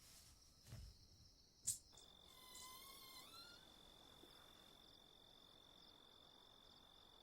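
Faint crickets trilling steadily at one high pitch, with a sharp click about a second and a half in.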